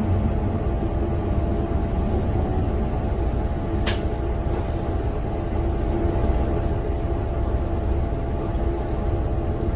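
Steady low rumble of a vehicle's engine and road noise picked up by a dashcam, with one sharp click about four seconds in.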